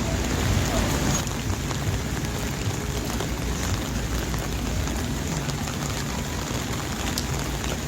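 Steady rain falling on a street, an even hiss with scattered drop ticks over a low rumble.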